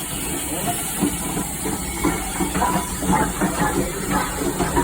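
Steady steam hiss from Norfolk & Western No. 475, a 4-8-0 steam locomotive, with irregular knocks and rumbles under it from about halfway through.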